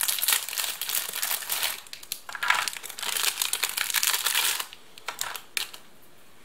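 Crinkly packaging of ration crackers being handled and opened, a dense crackling for about four and a half seconds, then a few brief rustles.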